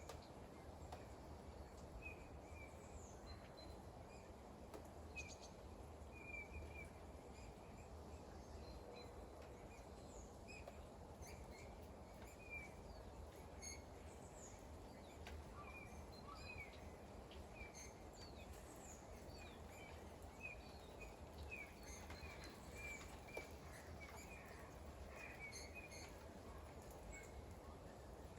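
Faint, steady rain noise, with small birds giving many short, high chirps.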